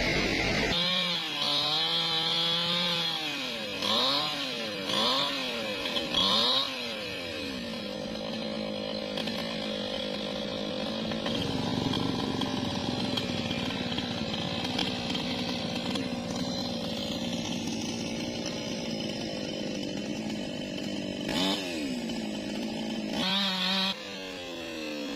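Newwest 628 two-stroke chainsaw revving up and down several times, then running steadily, with another brief dip and rev near the end.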